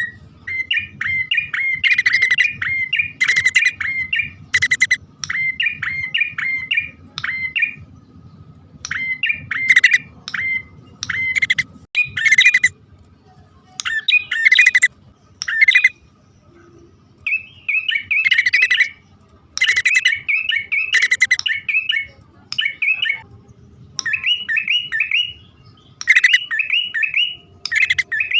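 Prenjak (prinia) calls, male and female, played as a bird-trapping lure: bouts of rapid, sharp chirping notes, repeated over and over with short pauses between bouts.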